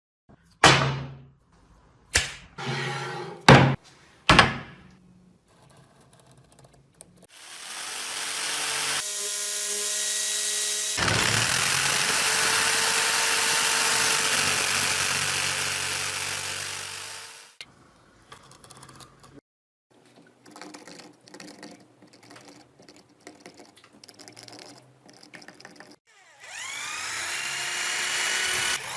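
A few sharp knocks, then a small electric power tool runs steadily for about ten seconds and stops, followed by light clicks and handling sounds. Near the end the tool spins up again with a rising whine.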